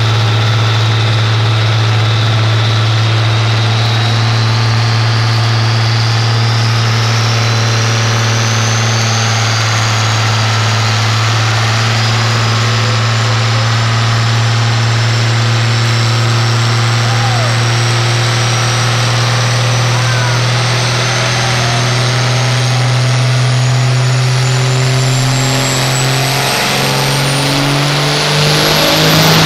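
Dodge 12-valve Cummins inline-six diesel pulling on a chassis dyno: a loud, steady low drone with a turbo whistle that climbs slowly in pitch all the way through. The engine note rises in the last few seconds as the revs come up.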